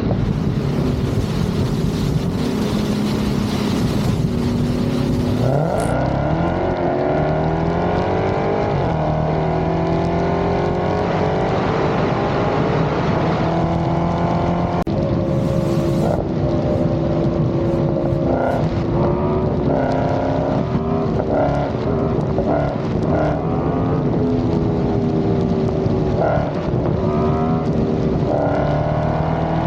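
Dodge Hellcat Redeye's supercharged V8 accelerating hard in a roll race, its engine note climbing steadily for several seconds, then rising and dropping repeatedly through shifts, and climbing again near the end.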